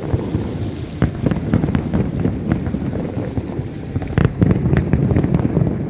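Fireworks display with many shells bursting in quick succession: a continuous deep rumble of booms with sharp crackling pops over it. The loudest bangs come about four seconds in.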